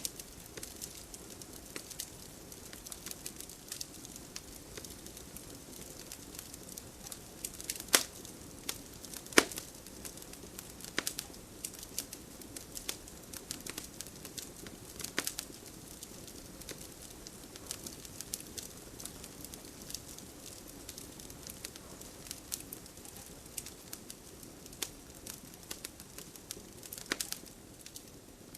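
Wood fire burning in a fireplace: a steady low hiss with irregular crackles and sharp pops, the loudest two about eight and nine and a half seconds in.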